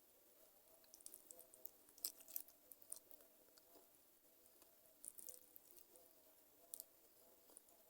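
Close-up chewing and biting of chicken feet: clusters of short, quiet, wet clicks and crackles, the loudest about two seconds in and again around five seconds in.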